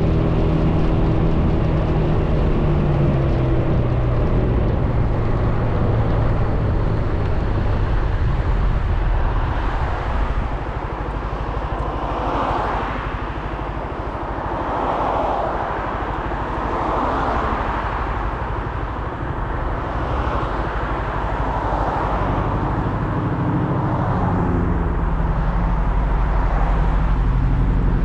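Suzuki Burgman 400 scooter's single-cylinder engine, heard from the rider's camera with road noise. The engine note falls over the first few seconds as the scooter slows, stays low and quieter through the middle, and picks up again near the end.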